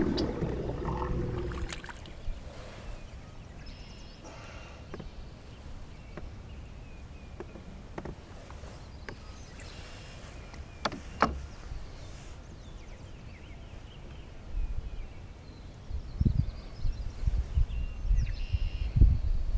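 Wind buffeting the microphone in low rumbling gusts, strongest over the last few seconds, with a few sharp knocks and faint chirps from birds.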